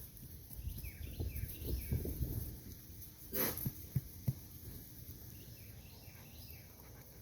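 Outdoor ambience: faint short chirping calls over low rumbling and a few knocks, with a brief rush of noise about three and a half seconds in.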